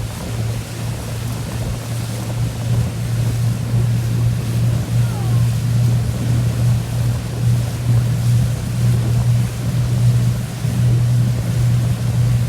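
Boat engine running steadily with a low drone, over a rushing noise of water and wind.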